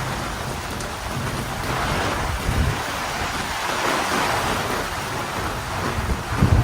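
Heavy rain falling steadily, with short low rumbles about two and a half seconds in and again, louder, near the end.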